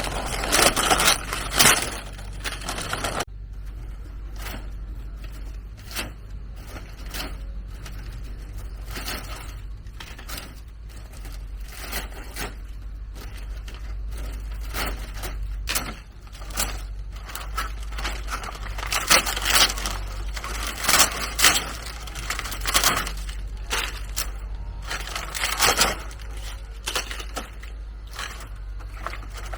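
Irregular crackling, rustling and scraping of hand work with dry leaves and bamboo, with scattered sharp clicks and knocks. The sound changes abruptly about three seconds in.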